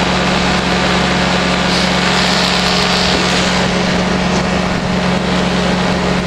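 Powered parachute's engine and propeller running at a steady, unchanging speed, with a constant rushing noise over it.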